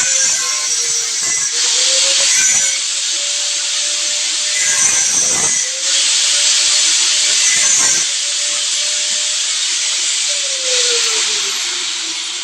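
Electric power tool motor running under changing load, its pitch dipping and recovering every few seconds with a gritty hiss of cutting or drilling. The motor winds down near the end.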